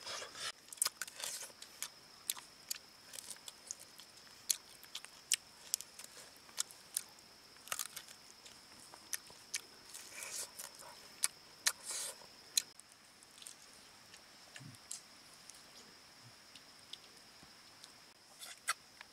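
Close-up eating sounds of roast duck being bitten, torn and chewed, a scatter of sharp, irregular crunches and clicks, over a steady high-pitched tone.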